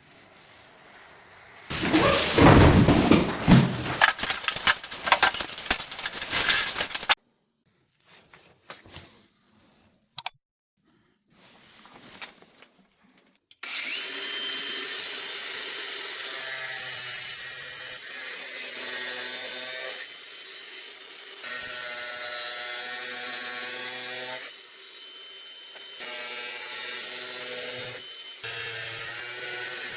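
Power tool work: a loud, rough stretch of cutting or drilling noise lasting about five seconds, then after some short knocks and pauses a steady running tool sound that shifts in pitch and level every couple of seconds.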